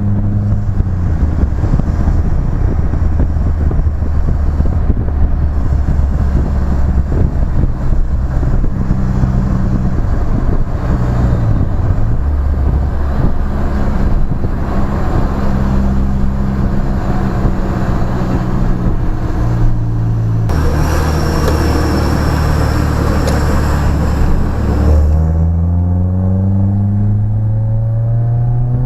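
BMW E30 with a new exhaust, driving: the engine note holds fairly steady at a few different rev levels, with a stretch of rushing hiss about two-thirds of the way in, then climbs steadily under acceleration over the last few seconds.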